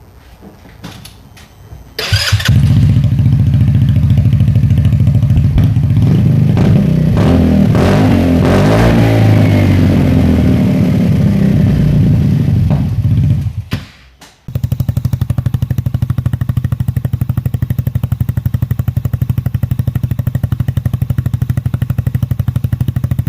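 Polaris Ace 150's small single-cylinder four-stroke engine running loud through a universal slip-on muffler with its resonator (baffle insert) taken out. It comes in suddenly about two seconds in, its pitch wavers around the middle, it drops out briefly near fourteen seconds, then runs steadily again.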